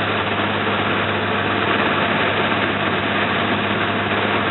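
The slow boat's engine running steadily, an even hum with a continuous rushing noise over it.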